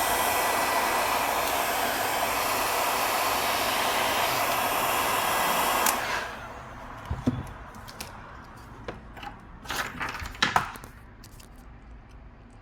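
Heat gun blowing steadily, switched off about six seconds in. After it stops come small clicks and taps of tools handling the phone's parts.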